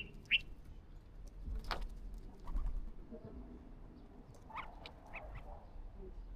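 Birds calling: two short high calls at the start and a few more brief calls about four and a half to five seconds in, with a sharp knock in between.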